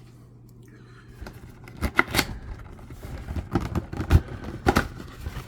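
Cardboard box being handled and opened by hand: a run of sharp knocks and taps with scraping and rustling, starting about two seconds in after a quiet moment.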